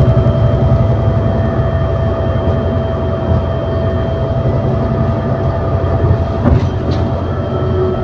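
An ADL Enviro400 City double-decker bus heard from on board, with a Voith automatic gearbox: a low engine rumble with a steady high whine over it. A single clunk comes about six and a half seconds in.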